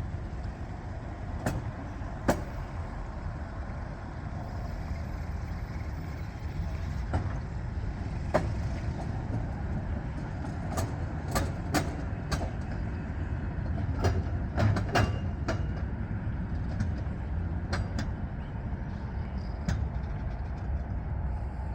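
Freight train rolling past: a steady low rumble with irregular sharp clanks scattered through it, several close together in the middle.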